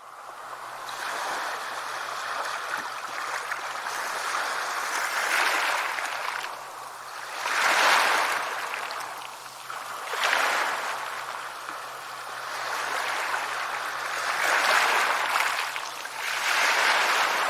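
Sea waves washing onto a shore: a steady hiss of surf that swells about five times as waves break and run up.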